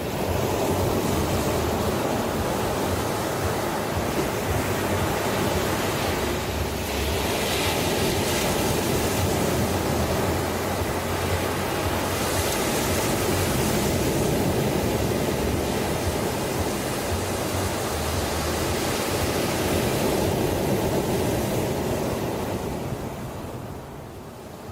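Ocean waves breaking and washing on a shore: a steady rushing surf that swells a few times and eases off near the end.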